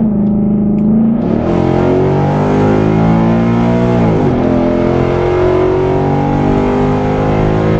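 2017 Ford Mustang GT's 5.0-litre V8, with cat-deleted aftermarket exhaust, accelerating at full throttle. The note drops and climbs again at an automatic upshift about four seconds in.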